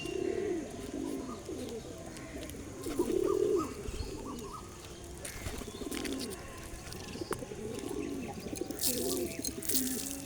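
Pigeons cooing, several low, rolling coos overlapping one after another, with a few short higher chirps about two seconds in. Sharp, brief rustling or clattering noises come in near the end.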